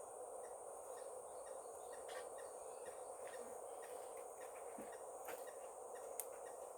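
Faint outdoor ambience: a steady high insect drone, with scattered soft clicks.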